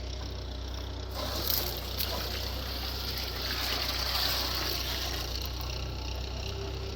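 Water gushing out and splashing onto the ground, starting strongly about a second in, over the steady low hum of a running tractor engine.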